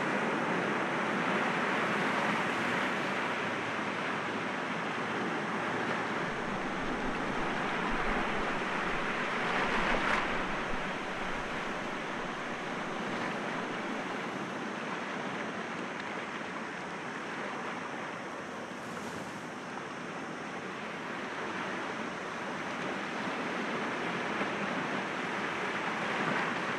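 Sea waves breaking gently against rocks: a continuous wash of surf that swells and eases, with stronger surges about two seconds in, around ten seconds, and near the end.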